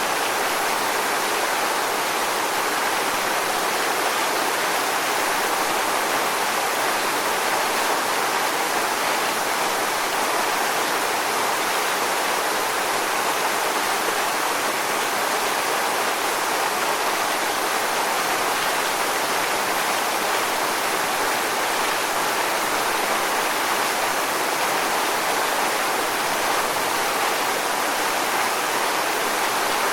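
Waterfall with falling water rushing in a steady, even hiss that does not change.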